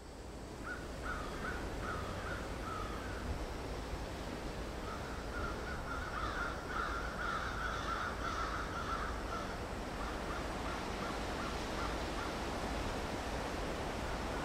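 Outdoor ambience: birds calling in runs of short, repeated caws over a steady, even background noise with a low rumble. The calls come in a few groups, the densest in the middle.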